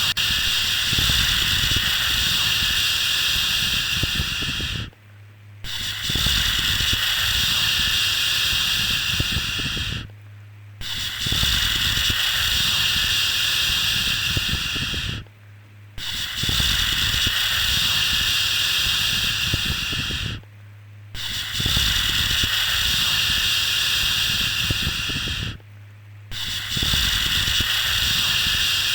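A 'shhh' shushing sound for soothing a baby to sleep, repeated over and over: each shush lasts about four and a half seconds, with a short break of under a second between them, about every five seconds. Under each shush there is a low steady hum.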